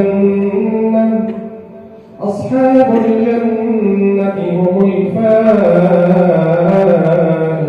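A male reciter chanting the Quran in a melodic tajweed style, holding long drawn-out notes. He breaks off briefly about two seconds in, then resumes the chant.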